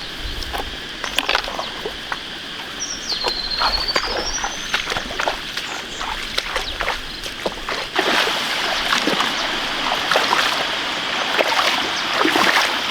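Water splashing and sloshing in shallow muddy water as fish are caught by hand, irregular at first and becoming denser and louder about eight seconds in.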